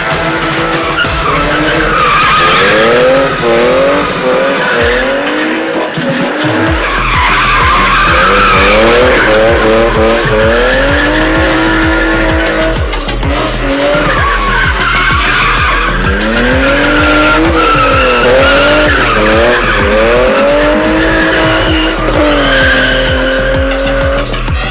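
A BMW drift car's engine revving up and down again and again, with tyres squealing as it slides. Background music with a steady beat plays underneath.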